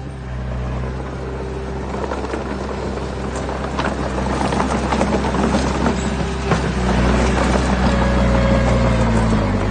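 Diesel engine of heavy earthmoving equipment working, its steady hum joined about two seconds in by rising rattling and clanking as the machine works harder.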